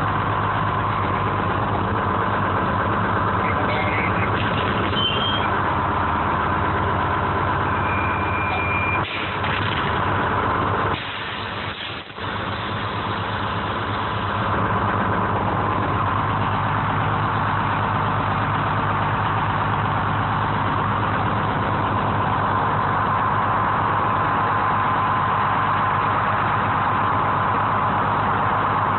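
Engine of a 1970 American 7510 crawler crane running steadily, heard from the operator's cab, with a brief dip in level about eleven seconds in.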